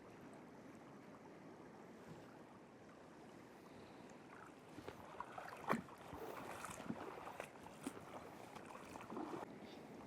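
Faint, steady rush of flowing river water, with a run of small splashes and knocks starting about halfway through, the loudest a little past the middle.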